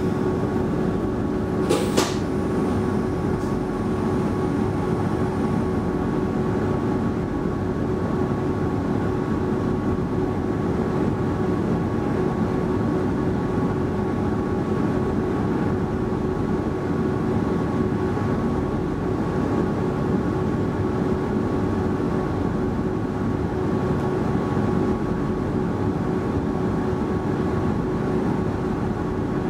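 Steady hum of an X10 commuter train's onboard equipment, heard inside the car while it stands still at a platform, with one sharp click about two seconds in.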